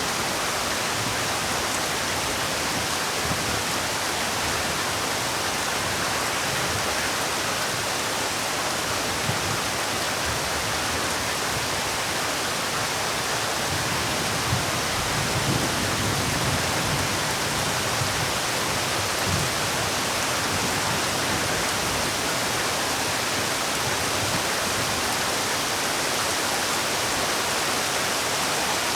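Heavy rain falling steadily, a dense even hiss of drops with no letup, and a few soft low thuds in the middle.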